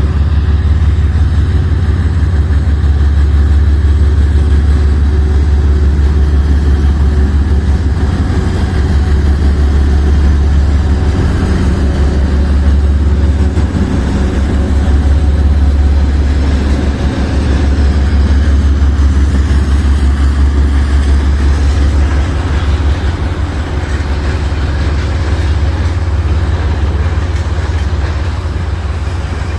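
Loud, steady low rumble of a train running close by.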